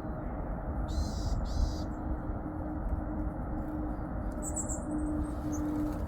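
A few high, thin chirps of small songbirds at a bird feeder, with two short high rustling bursts about a second in, over a steady low rushing background noise.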